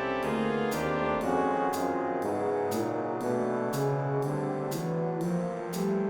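Wind ensemble playing brass-heavy chords that move from note to note. A sharp percussion stroke falls about twice a second.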